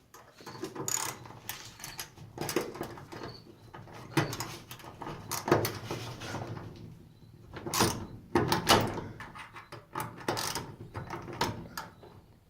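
Phillips bit held in a socket working a screw on a garage door, with irregular metallic scraping clicks and knocks as the bit slips in the screw head, chewing the head up.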